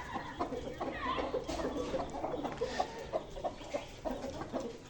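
Several desi chickens and chicks clucking and cheeping, with many short, scattered calls.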